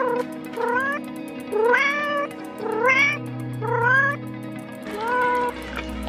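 Domestic cat meowing repeatedly, about six short meows roughly a second apart, each rising in pitch, over steady background music.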